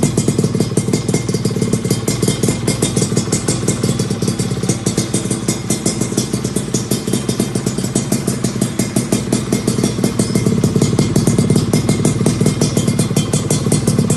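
Yamaha F1ZR's two-stroke single-cylinder engine running through an aftermarket 'standard racing' muffler, a rapid even stream of exhaust pulses. It eases off slightly in the middle and picks up again near the end.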